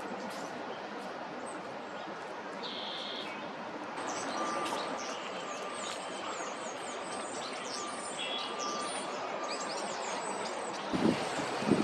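Small songbirds giving a rapid series of short, high, thin chirps over steady background noise. Near the end a louder low rumbling noise cuts in.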